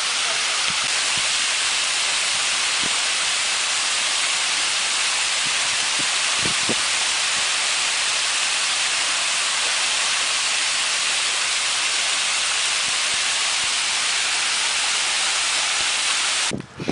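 Waterfall pouring steadily into its pool, a dense even hiss-like rush of falling water, cutting off suddenly near the end.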